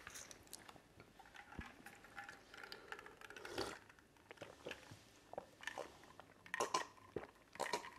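Faint chewing and small wet mouth clicks of people eating fufu and soup with their hands, picked up close by lapel microphones.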